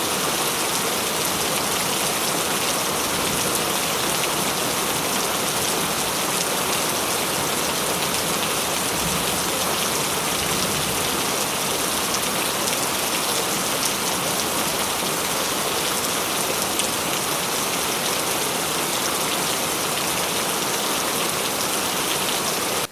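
Steady tropical rain falling and pattering on surfaces, with no pause in its intensity; the sound stops abruptly at the end.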